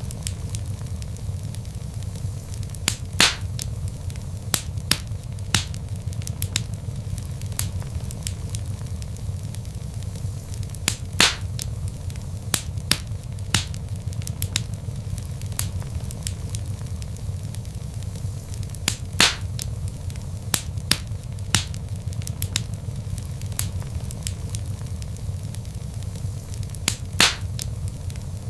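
Wood fire burning in a fireplace: a steady low rumble of flames with frequent sharp crackles and pops from the logs, a few louder snaps standing out.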